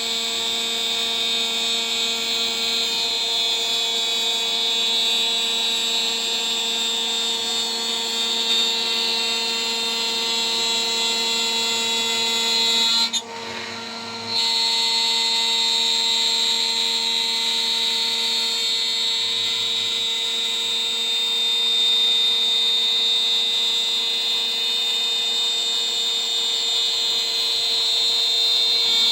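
DIY CNC router's spindle turning a 3 mm three-flute end mill at about 14,000 RPM while milling a part: a steady, high-pitched whine. About halfway through it drops away for about a second, then resumes.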